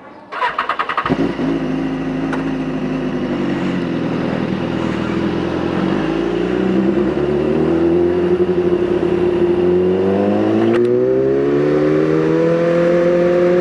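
BMW S1000RR inline-four motorcycle engine started: a brief rapid clatter of the starter, then the engine catches and idles. After about six seconds it pulls away, its pitch rising steadily as the bike gathers speed.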